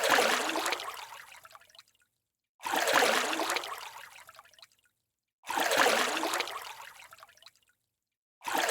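A looped splashing water sound effect, repeated about every three seconds; each one starts suddenly and fades out over about two seconds, with silence between.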